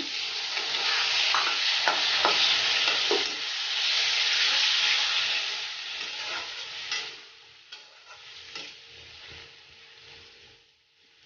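Chopped tomatoes sizzling in hot oil in a metal kadhai just after being tipped in, with a metal spatula scraping and clicking against the pan as they are stirred. The sizzle is loud at first and dies down over the second half.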